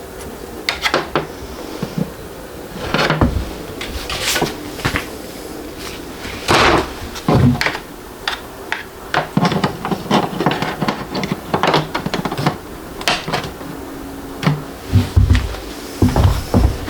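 Irregular knocks, clicks and rustles of hands handling 3D printer parts and packaging, with no steady machine sound.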